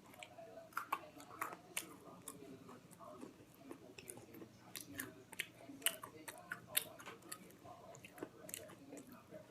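Someone chewing a crunchy cracker snack close to the microphone: irregular crisp crunches and wet mouth clicks.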